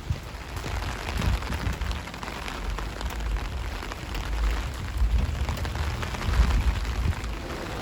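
Steady rain falling on a city street: an even hiss, with an uneven low rumble underneath.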